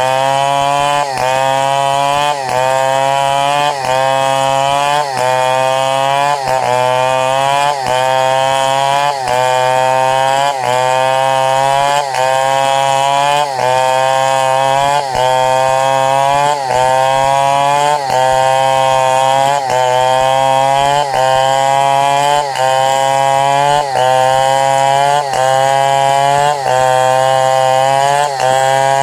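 Chainsaw running under load while ripping durian wood into planks. The engine pitch climbs and then briefly dips, over and over, about every one and a half seconds.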